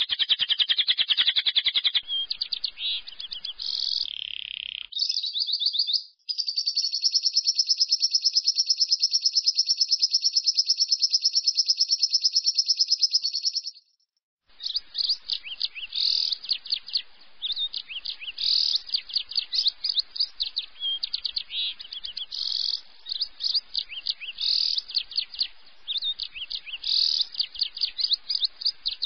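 Lovebird ngekek: a fast, high, rattling trill of rapidly repeated notes. The longest unbroken run lasts about seven seconds and stops abruptly about halfway through. Shorter chattering bursts with small gaps come before and after it.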